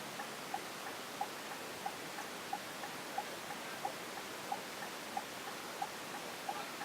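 Turn-signal indicator ticking steadily inside a coach, about three short ticks a second alternating louder and softer, over a steady cabin hiss.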